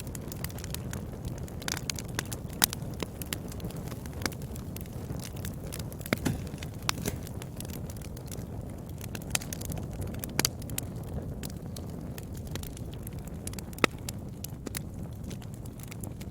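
Wood fire burning in a fireplace: a steady low sound of the flames, with irregular sharp crackles and pops from the burning wood. Two louder pops come about two and a half seconds in and near the end.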